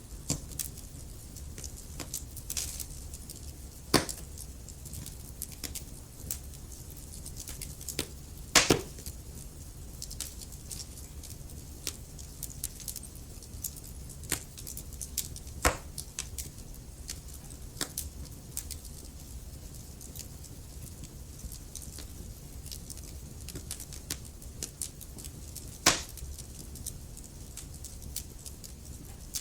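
Wood fire in a fireplace crackling steadily over a low rumble, with frequent small ticks and a few louder sharp pops from the burning logs, the loudest about a third of the way in.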